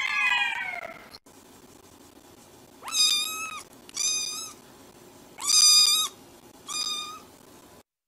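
A cat meowing: one meow falling in pitch at the start, then four short, high meows about a second apart.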